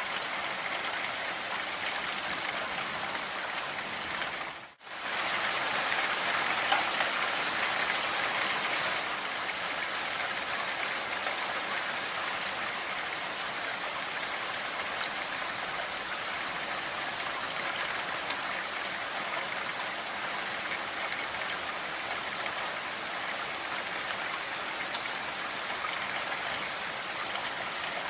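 Steady rain falling, an even hiss of many drops. About five seconds in, it cuts out for an instant, then comes back a little louder for a few seconds.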